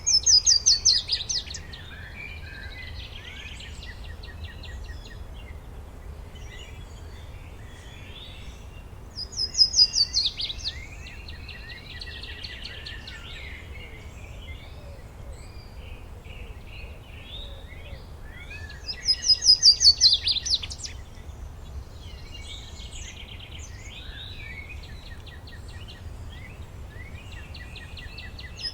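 Woodland birdsong: one bird sings a loud, fast trill that falls in pitch and lasts about a second and a half. It sings three times, about ten seconds apart, over fainter chirping from other birds and a steady low rumble.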